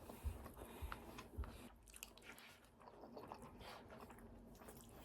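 Faint chewing and biting of food, a few soft crunchy bites in the first second and a half, then quieter chewing.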